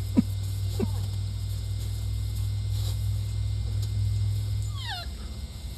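A puppy gives two short yips near the start and one falling whine just before the end, over a steady low rumble that drops away near the end.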